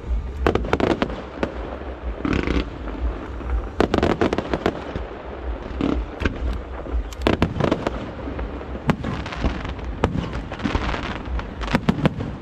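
Aerial fireworks shells bursting overhead: many sharp bangs at irregular spacing, some in quick clusters, with crackling trails after the bigger bursts.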